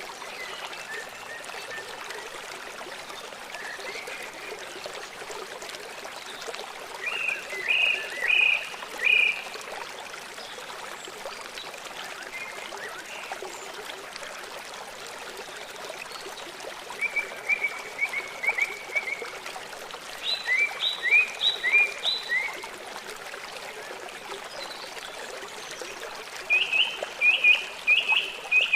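Small songbirds singing in several short bursts of quick, repeated high chirps, each a second or two long, over the steady rush of running water.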